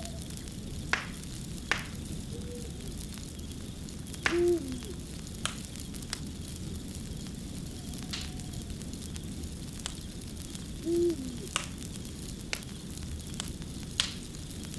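Crackling fire: a steady hiss with sharp, irregular pops. A short, low call with a falling tail sounds a few times over it, loudest at about four seconds and again near eleven.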